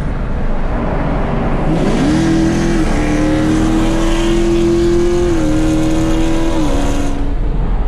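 Car engine pulled at full throttle, heard from inside the cabin: the note sweeps up hard about two seconds in and keeps climbing. It dips twice as the car shifts up, then the throttle lifts near the end.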